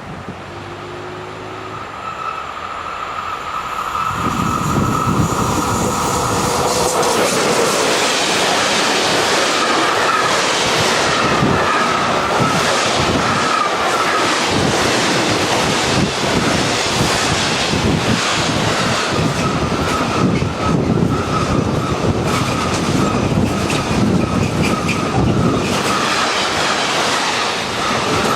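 Train passing close by. It grows louder over the first few seconds, then becomes a long steady rush of wheels on rail with rhythmic clacking over the joints and a high-pitched whine.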